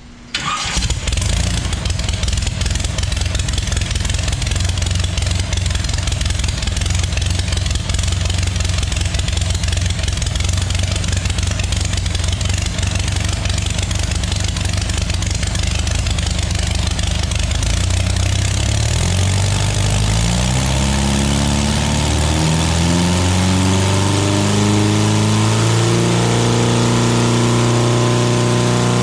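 GM 3.0-litre inline four-cylinder engine breathing through a home-built log intake and exhaust, firing up just after the start and running with a rough, choppy idle. About two-thirds of the way through, its pitch climbs and then settles into a steadier, faster run.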